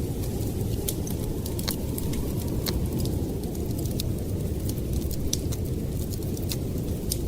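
Steady low rumble of blizzard wind, with a wood fire crackling in sharp, irregular pops over it.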